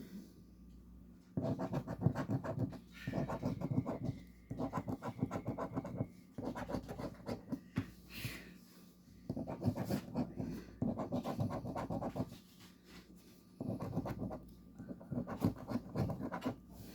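Scratch-off lottery ticket being scraped to uncover its numbers, in several spells of quick scratching strokes with short pauses between.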